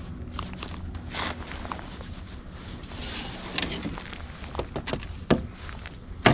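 Landing a smallmouth bass from a kayak: short swishes and splashes and sharp knocks of handling against the boat, the loudest two knocks near the end.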